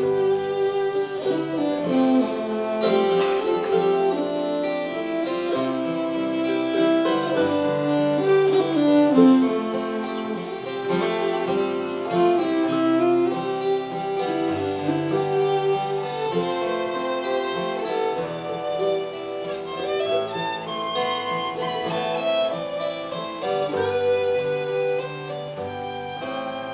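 Instrumental break of a slow country-folk song played live: a melody line with sliding notes over steady stringed accompaniment, with no singing.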